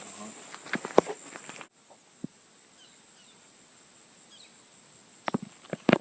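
Outdoor tropical forest ambience: a steady high insect buzz with a few faint bird chirps, and several sharp knocks or steps about a second in and again near the end. The background drops suddenly a little under two seconds in.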